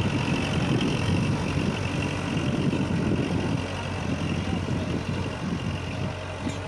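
Kubota tractor's diesel engine running steadily, easing slightly in loudness about four seconds in.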